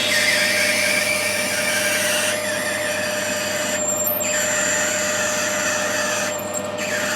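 Lathe drilling an 8 mm tapping hole for a 1/8 BSP thread into brass with a coated twist drill. A steady machine tone sits under a hissing cutting noise that briefly drops out twice, about four and six and a half seconds in.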